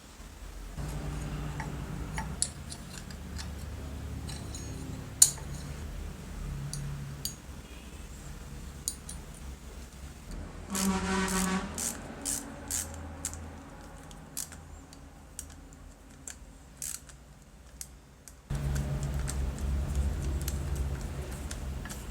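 Clicks and light metal taps of small parts being handled, with a brief ringing tone about halfway through, over a low steady rumble.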